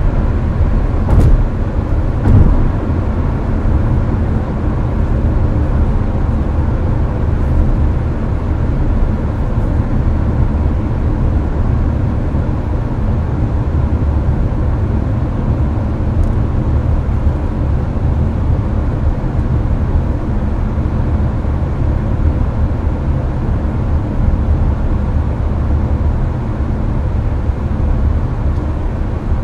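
Inside a Hyundai Avante cruising on the highway: a steady low road-and-engine rumble with the air conditioner blowing. Two short thumps come about one and two and a half seconds in.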